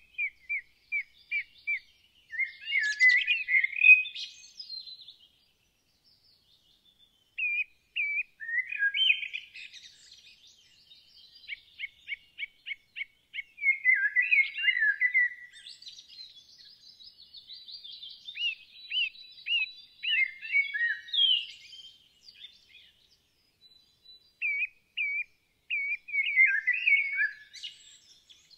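Songbirds singing: phrases of quickly repeated chirps alternate with tangled, warbling bursts, separated by short pauses, including a brief lull about six seconds in.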